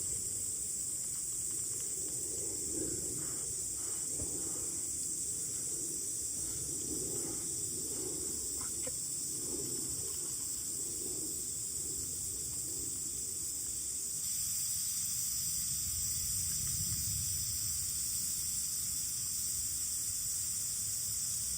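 Insects chirring steadily in a high, even band, with a few faint clicks in the first half.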